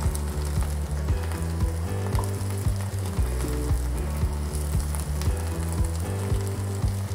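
Stuffed bitter gourds (karela) frying in a little oil in a nonstick pan, sizzling steadily, as they are turned with a wooden spatula. They are being fried a second time to crisp the outside.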